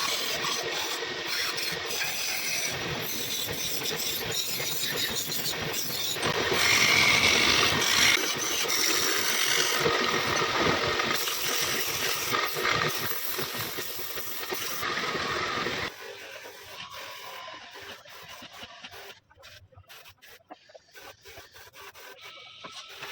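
Power tool working wood: a steady, noisy hiss that grows louder for a couple of seconds about seven seconds in. About sixteen seconds in it drops away to quieter scattered taps and scrapes.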